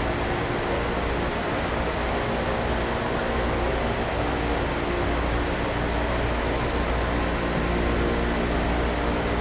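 Skateboard wheels rolling on a road: a steady, even rumble.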